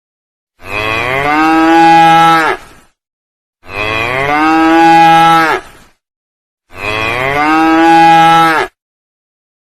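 A cow mooing three times, the same call repeated, each moo about two seconds long, rising in pitch and then holding steady.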